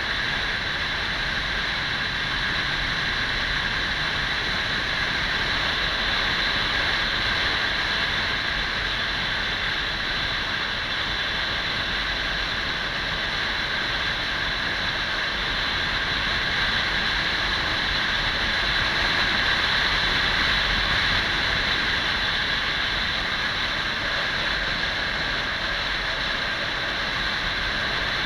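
Kawasaki 400 cc motorcycle under way: a steady rush of wind and engine noise, swelling slightly a couple of times as the speed changes.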